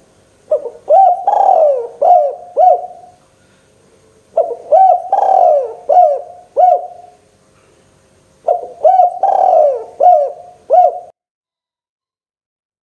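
Spotted dove (tekukur) cooing: three repeated phrases of several short, falling coo notes each. The last phrase cuts off abruptly near the end.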